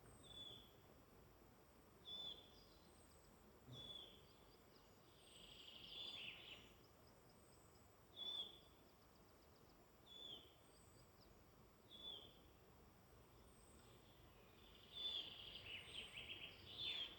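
Faint woodland birdsong: one bird repeats a short high call about every two seconds, while another gives a fast twittering song twice, once about five seconds in and again near the end, over a steady background hiss.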